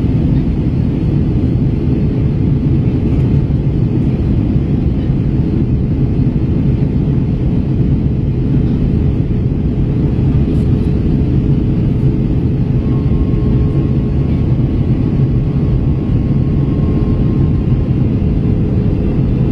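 Steady in-flight cabin drone of an Airbus A321 airliner: engine and airflow noise with a constant low hum, heard from inside the passenger cabin.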